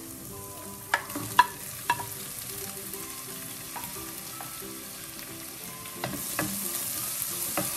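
Sliced onions and masala frying in oil in a non-stick pot, a steady sizzle, with a few sharp knocks about a second in as tomato wedges are pushed off a plate into the pot. Near the end the sizzle grows louder as a wooden spoon stirs the tomatoes in.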